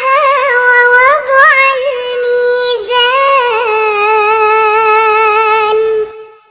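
A young girl's voice in melodic Quranic recitation (tajweed), drawing out long held notes with ornamental pitch turns, then fading out near the end.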